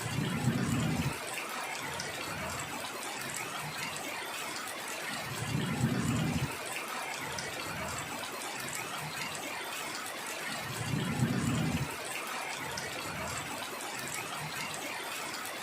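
Heavy rain falling steadily. A low rumble lasting about a second rises over it about every five seconds, three times.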